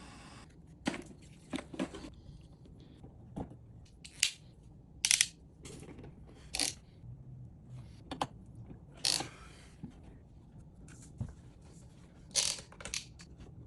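Tools and pipe fittings being handled during plumbing work: a dozen or so scattered clicks, knocks and short scrapes. The loudest is a pair of sharp clicks about five seconds in, and there is a longer scrape about nine seconds in.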